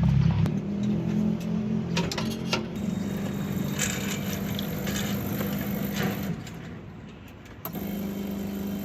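Small metal and glass clinks and scrapes of barista utensils over a steady mechanical hum. The hum fades for about a second near the end, then comes back.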